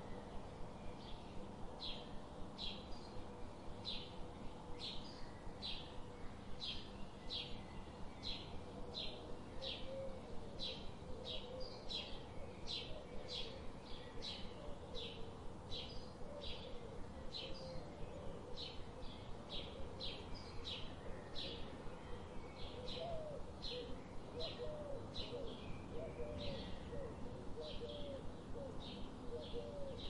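Birdsong ambience: a steady run of short high chirps, about two a second, with lower wavering, cooing calls joining in from about a third of the way through.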